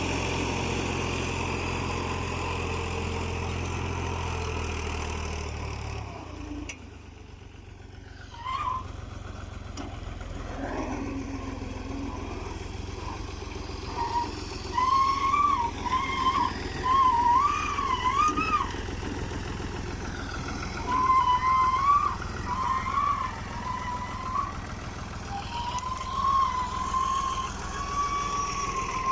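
Fiat 480 tractor's diesel engine running steadily under load, pulling a cultivator, then dropping away about six seconds in. After that a fainter engine hum continues with a wavering high-pitched sound rising and falling over it.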